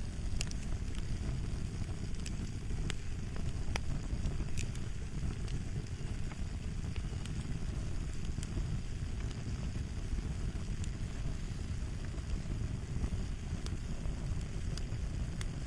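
Fire crackling: a steady low rumble of flames with scattered, irregular sharp pops and snaps, more of them in the first few seconds.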